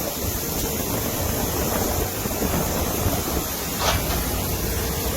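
Steady rushing noise with one sharp click about four seconds in.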